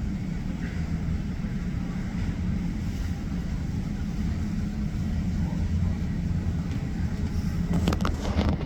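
Jet airliner engines running at taxi idle: a steady low rumble, with a few clicks near the end.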